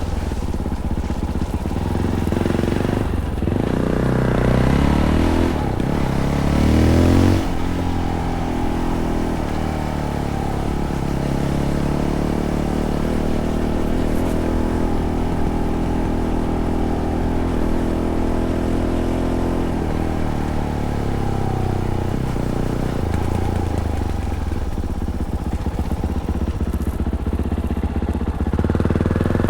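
Fantic Caballero 500's single-cylinder four-stroke engine, through its stock Arrow exhaust, pulling under way. The revs climb twice in the first several seconds and drop sharply, then hold at a steady cruise.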